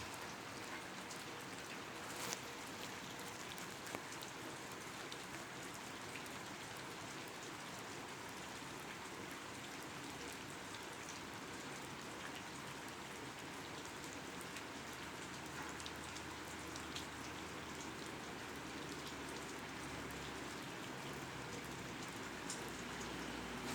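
Steady, even hiss with scattered faint ticks and no speech.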